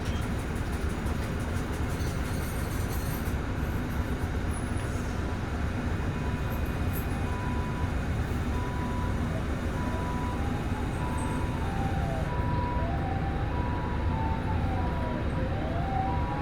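Nissan Diesel PKG-RA274MAN bus's diesel engine running steadily under a low rumble of road noise. From about six seconds in, an emergency vehicle's two-tone siren alternates high and low, and from about ten seconds a wailing siren rises and falls over it, growing louder near the end.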